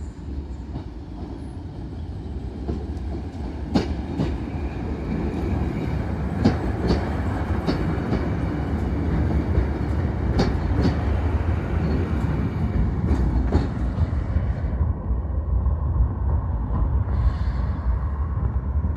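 Diesel train running past, a low rumble growing louder with sharp clicks of wheels over rail joints.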